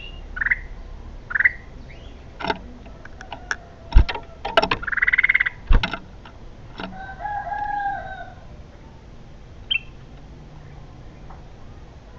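Short bird chirps from bulbuls over a steady outdoor background, with a longer call that PANN takes for a rooster crowing around the middle. Two sharp clicks come partway through.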